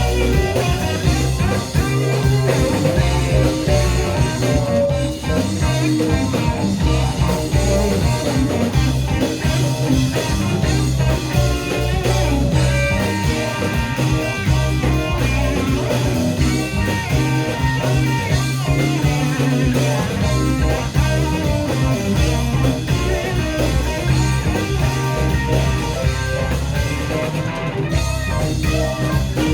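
Live rock band playing an instrumental passage: electric guitar lines over bass and drum kit, with no singing.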